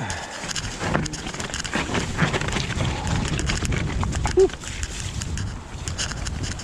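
Mountain bike riding over a wet, rocky trail: irregular rattling and knocks from the tyres and frame on the rocks, over wind noise on the chest-mounted microphone. A short, loud squeak comes about four and a half seconds in.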